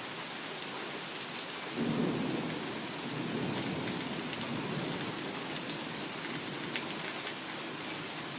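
Heavy rain falling steadily. About two seconds in, a low rumble of thunder starts suddenly and rolls on for several seconds before fading.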